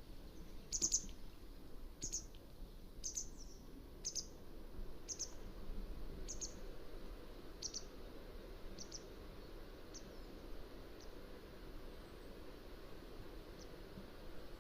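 Mountain wagtail calling: a run of short, high, sharp calls about once a second, growing fainter after the first several, over a steady background hiss.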